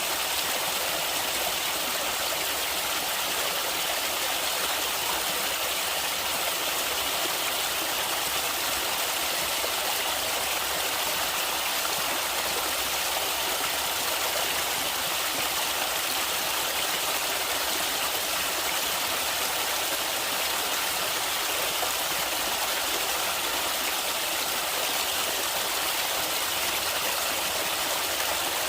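Stream water flowing and splashing steadily over rocks, an even rushing noise with no break.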